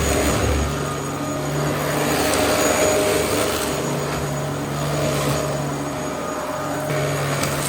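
Dyson DC07 Allergy bagless cyclonic upright vacuum cleaner running, a steady motor hum under a rushing airflow hiss whose loudness swells and eases gently.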